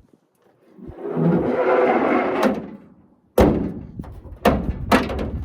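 Rustling and scraping for about two seconds, then three sharp bangs a second or less apart, like a door or drawer being shut or knocked.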